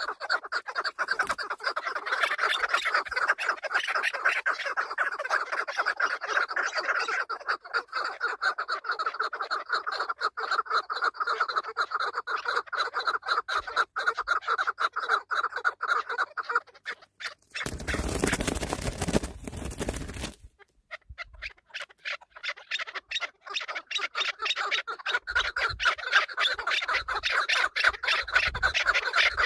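Chukar partridges calling, a rapid run of repeated clucking notes that goes on almost without pause. About two-thirds of the way through, a loud rush of noise drowns it for a couple of seconds, then the calling resumes.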